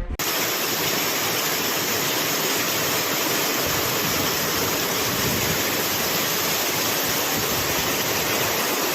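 Steady rush of fast-flowing floodwater, an even, unbroken noise.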